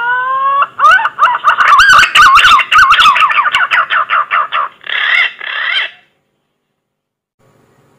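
Green pigeon (punai) song from a repeated lure-call recording. It opens with a long rising whistle, then runs into a fast series of warbling whistled notes, about five a second, and ends on two slurred notes before stopping about six seconds in.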